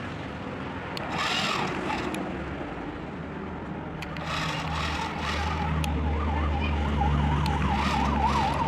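A siren sounds in a fast up-and-down warble, starting about five seconds in, over a steady low engine hum. Earlier there is a single short rising-and-falling whoop.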